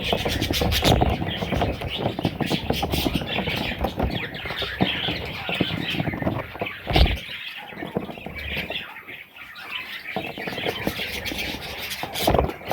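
Baby budgerigars chirping and squawking continuously, with scratching and rustling among them and a sharp knock about seven seconds in.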